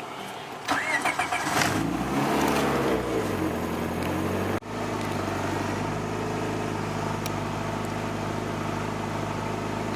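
Turbocharged Honda Civic four-cylinder engine starting up: it catches, its revs rise and fall back over a couple of seconds, and it settles into a steady idle after a brief break about halfway.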